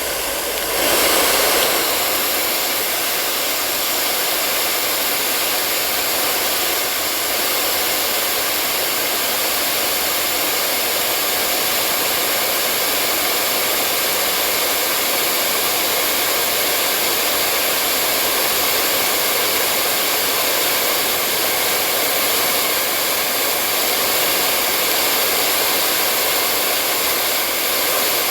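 Hair dryer running steadily: an even hiss with faint high steady tones, after a brief dip and surge in level about a second in.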